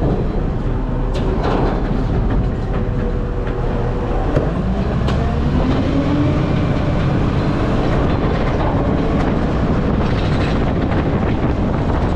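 Garbage truck engine running with a heavy, steady rumble and rattling, its engine note rising about five seconds in.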